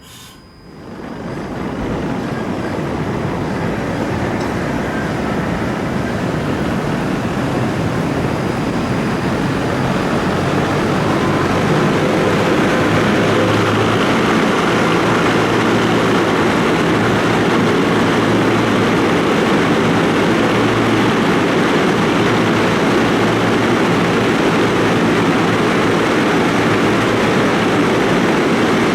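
Trieste–Opicina tram running on its rails: a loud, steady rolling noise that builds over the first ten seconds or so and then holds.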